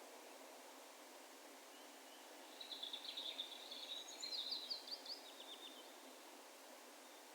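A distant songbird sings one phrase of about three seconds, echoing over open ground: a quick high run of notes that ends in a string of fast falling notes. Faint steady outdoor hiss underneath.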